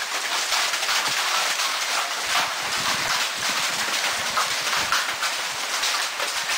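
Heavy hail falling: a dense, steady clatter of countless small hailstones striking leaves and surfaces.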